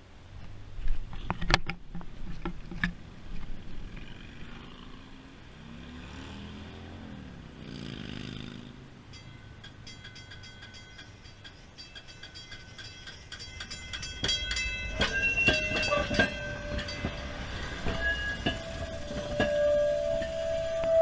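Electric streetcar pulling forward on its rails: a few knocks, then the motor's whine rising and falling. Rapid clicking of steel wheels over the rails and switch follows, with a squeal that settles into a steady tone near the end.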